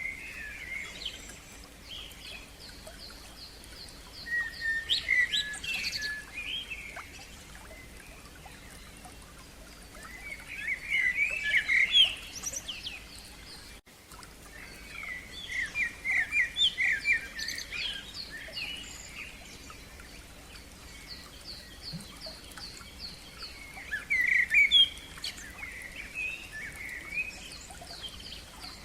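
Songbirds singing in the open: bursts of varied, chirping song phrases come every five or six seconds. Between them, another bird gives a long run of quick repeated high notes.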